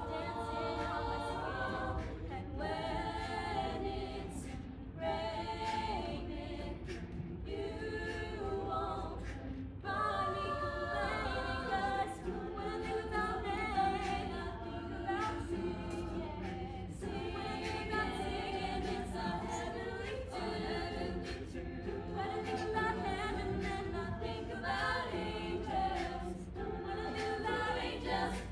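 Madrigal choir singing a cappella in several parts, in phrases of a few seconds with short breaks between them.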